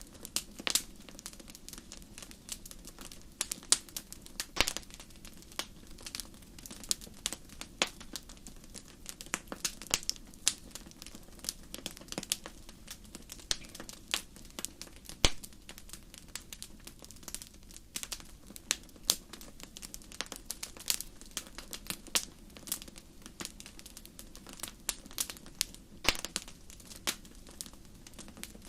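Wood campfire crackling: irregular sharp pops and snaps several times a second, some louder than others, over a soft steady low rush.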